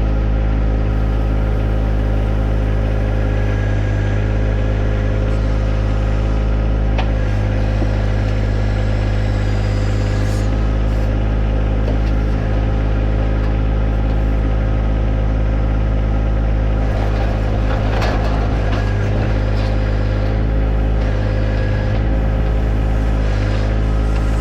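John Deere 1025R compact tractor's three-cylinder diesel engine running steadily while working its 260B backhoe, with a few short knocks and scrapes at intervals.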